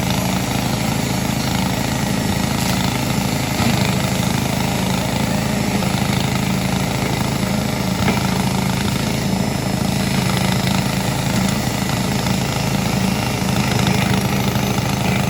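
Engine-driven grass chopper running steadily at a constant speed, with a loud, even, rapidly pulsing engine note.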